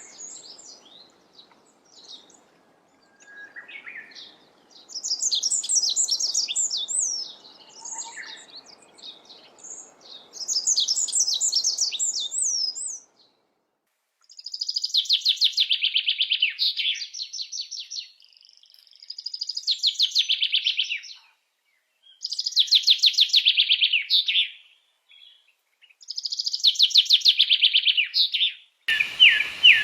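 Songbird singing in bouts about two seconds long: at first quick, sweeping high notes, then from about halfway a fast, rattling trill repeated every few seconds.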